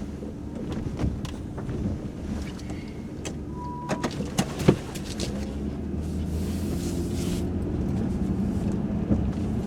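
1995 Chevrolet Monte Carlo engine idling steadily, heard inside the cabin with the heater running, the engine almost warmed up. Scattered clicks and knocks sound over it, with a short beep about three and a half seconds in and a sharp knock just before five seconds.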